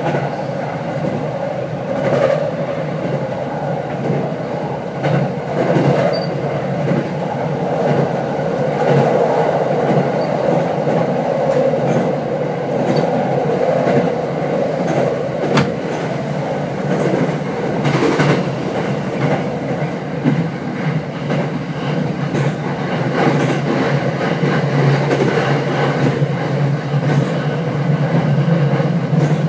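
Running noise inside an unpowered trailer car of a Tokyo Waterfront Area Rapid Transit 70-000 series commuter train at speed, with no traction-motor whine. The wheels on the rail make a steady rumble, broken by a few sharp clacks over rail joints.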